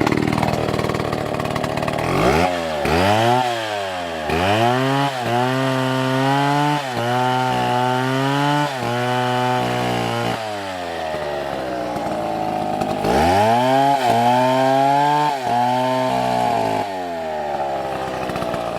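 Two-stroke chainsaw cutting wood at full throttle. Its engine note repeatedly sags as the chain bites into the cut and climbs back as the load eases. Midway it runs steadily for a few seconds before bogging again.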